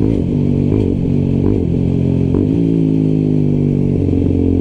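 125cc motorcycle engine running at low revs, its pitch dipping and rising slightly as the bike is ridden slowly.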